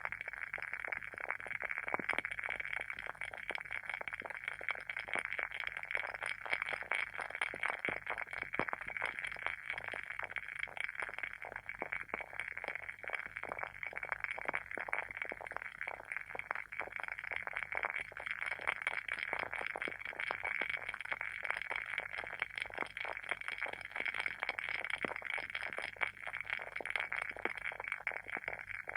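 WoodWick candle's wooden wick burning with a continuous, dense crackle of tiny pops, like a small bonfire.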